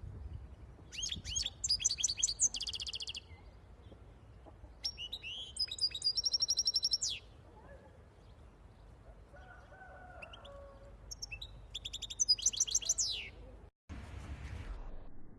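A small songbird singing three bursts of rapid, high chirps and trills, each lasting about two seconds. Near the end the sound cuts out briefly and is followed by a short hiss.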